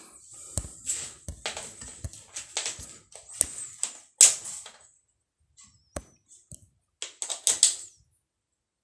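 Irregular clicks, taps and knocks of hands working on an opened LCD TV with its backlight exposed, stopping abruptly near the end.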